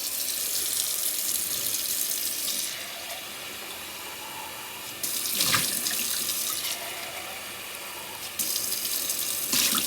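Kitchen tap running into a sink while an empty food can is rinsed out under it; the rush of water gets louder and softer by turns, with a light knock about halfway and another near the end.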